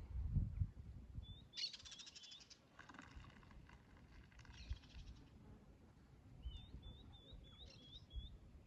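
A small bird chirping faintly in short, high repeated notes: a few about a second and a half in, then a quicker run of about eight near the end.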